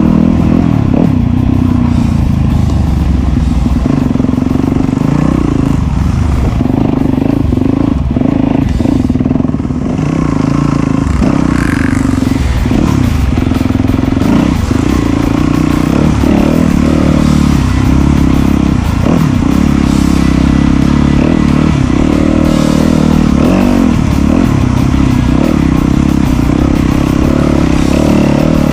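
Off-road dirt bike engine revving up and down as it rides a muddy enduro trail, the throttle easing off briefly about ten seconds in.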